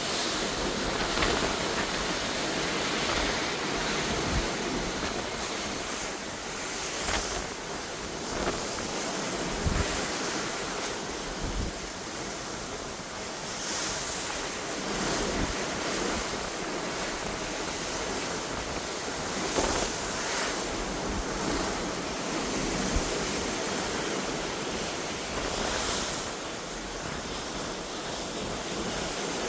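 Wind buffeting the microphone over the steady rush of sea water churned by a moving cruise ship, with gusts surging every few seconds.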